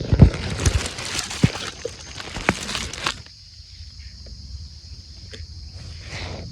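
Loud rustling and handling with several sharp knocks for about three seconds, then it turns quiet. Under it all, a steady high-pitched insect chorus drones on.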